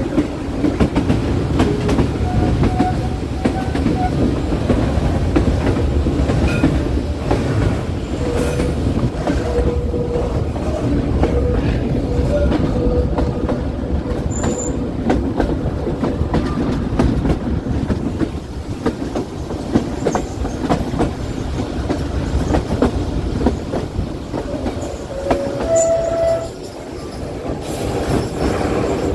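Passenger train running on a tight mountain curve, its wheels squealing against the rails in short stretches of thin, steady tone over the continuous rumble and clatter of the wheels.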